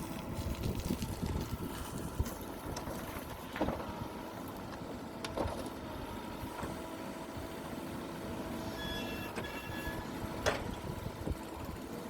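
Heavy diesel earthmoving machinery running at a distance as a low, steady rumble, with a few sharp knocks and a short run of high-pitched beeps about nine seconds in.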